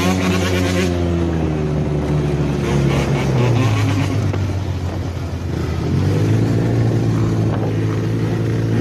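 Motorcycle engine running under throttle. Its note sags and turns rougher around the middle, then picks up again and holds steady.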